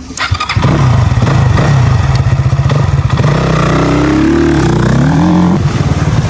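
Dirt bike engine running close by. It comes in loudly about half a second in and is revved up and back down near the middle.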